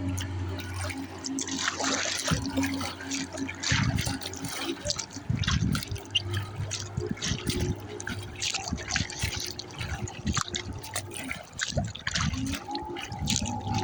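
Water splashing and slapping against a kayak hull in light chop, in irregular splashes.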